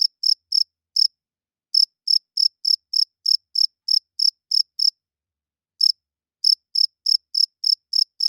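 Male cricket chirping, rubbing its wings together: short, high-pitched chirps in an even run of about three a second, broken by a couple of brief pauses.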